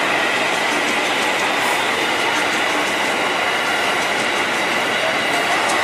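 Electric commuter train passing close by: a steady wash of wheel-on-rail noise with a faint high steady whine.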